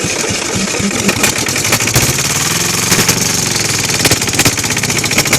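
Kohler KD425-2 two-cylinder air-cooled diesel running roughly with a loud, rapid chatter. Its exhaust is in need of repair.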